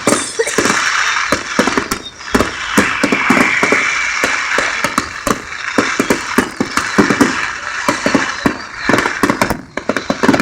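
Fireworks display going off: a rapid, irregular barrage of sharp bangs and crackles over a continuous fizzing crackle.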